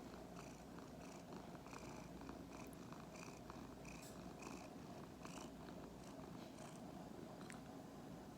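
A Norwegian Forest–Korean Shorthair mix cat purring faintly and steadily, with a regular rhythm.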